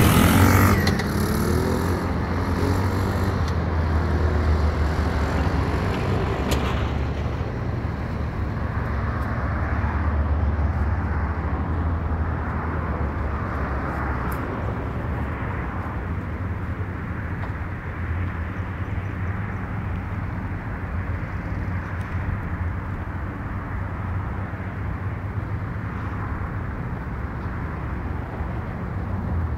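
Jaguar Agro 250 ATV engine running. Its pitch rises in the first few seconds as it revs, then it runs steadily.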